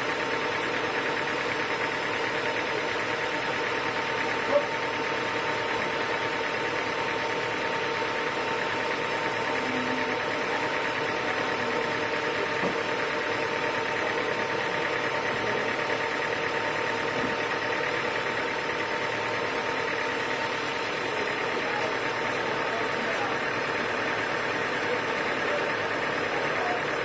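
Sawmill machinery running steadily, a constant engine-like hum with a steady tone, and one short knock about four and a half seconds in.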